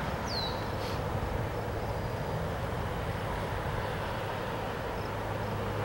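BNSF freight train rolling away into the distance: a steady low rumble of its cars on the rails. One short, high, falling squeak about half a second in.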